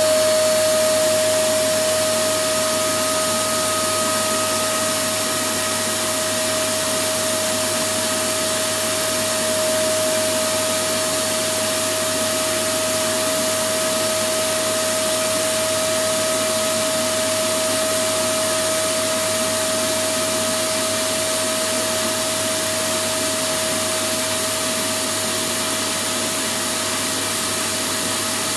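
Electric vacuum cleaner running steadily: an even rush of air with a constant motor whine over it, played as continuous white noise.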